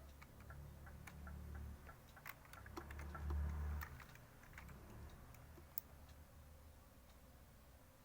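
Low rumble inside a car's cabin that swells twice, with scattered light clicks and ticks over it.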